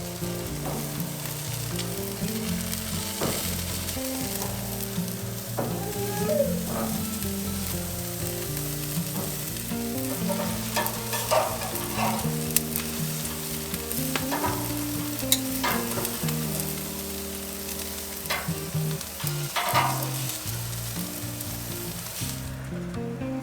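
Food sizzling as it fries, a steady crackling hiss with scattered sharp pops and clicks, under background music. The sizzle cuts off shortly before the end.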